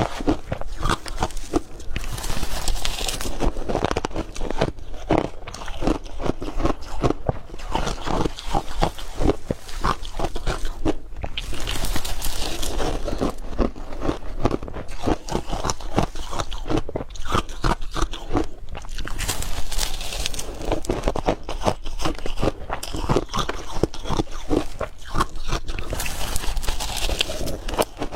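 Close-up crunching of hard crushed ice being bitten and chewed, a rapid, continuous run of loud crunches, with brief brighter, sharper crunches every several seconds as fresh mouthfuls are taken.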